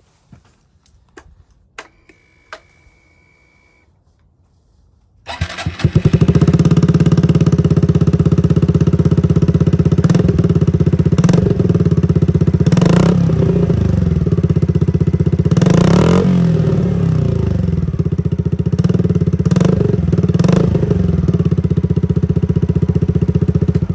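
Honda Cross Cub 50's single-cylinder four-stroke engine starts about five seconds in and idles loud and steady through an aftermarket megaphone muffler made for the Super Cub 50, its supplied silencer still fitted. The throttle is blipped briefly several times. Before the start there are only a few faint clicks.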